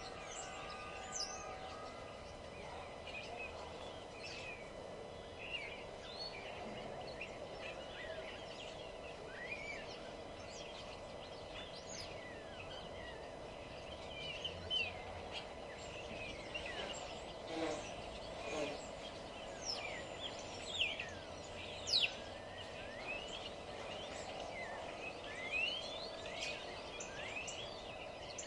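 Several wild songbirds chirping and singing over one another in short, quick calls, with a steady low hum underneath. The calls come thicker and louder in the second half.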